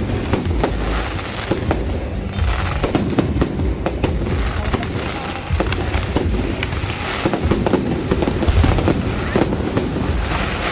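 Aerial fireworks bursting and crackling: a dense run of sharp reports in quick succession over a low rumble.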